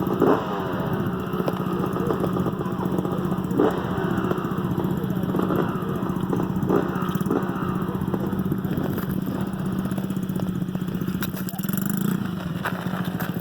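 Small dirt bike engine running steadily at low throttle, with a few short louder moments.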